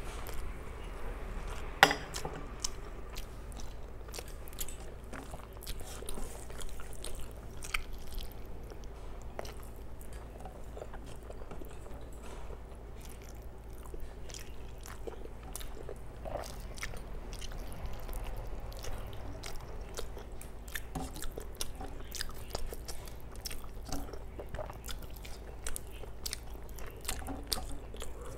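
Close-miked eating by hand: many small wet chewing and mouth clicks as rice mixed with curry is eaten, and fingers squishing and pressing the rice on a steel plate. One sharper click stands out about two seconds in.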